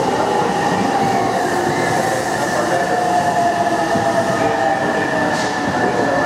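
JR West Thunderbird limited-express electric train rolling slowly past at close range: a steady rumble of wheels on rail with high whining tones that sink slowly in pitch. A short hiss about five seconds in.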